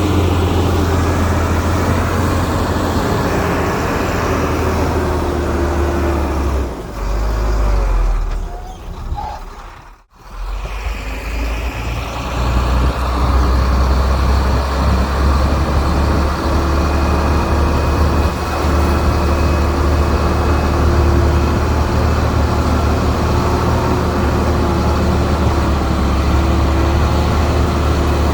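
Heavy earthmoving machinery's diesel engine running, a deep steady rumble. The sound fades and drops away sharply about ten seconds in, then resumes.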